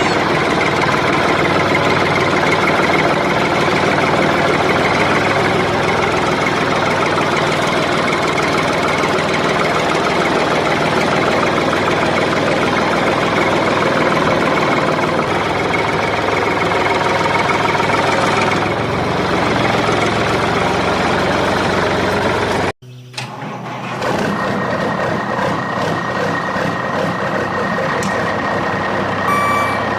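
Truck engine sound running steadily with a knocking rumble. It cuts out abruptly about 23 seconds in and comes straight back. Reversing beeps start just before the end.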